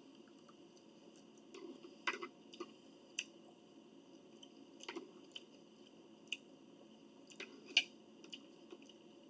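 Close-up eating sounds: wet chewing and mouth smacks of someone eating a bacon salad, with scattered sharp clicks, the loudest about two seconds in and near the end.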